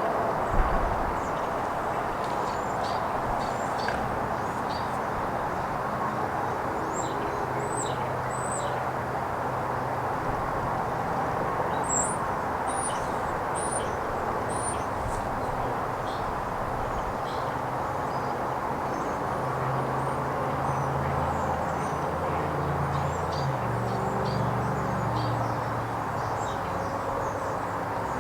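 Open farm-field ambience: a steady rushing haze with many short, high chirps from small birds scattered through it. A low engine-like hum comes in about a third of the way through and grows stronger toward the end.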